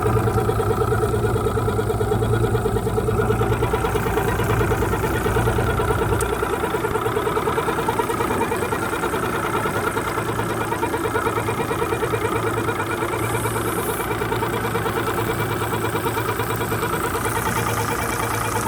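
Mercury 175 outboard motor running steadily with an even rhythmic pulse, making a sound its owner calls weird. Its heavy low rumble drops away about six seconds in while the engine keeps running.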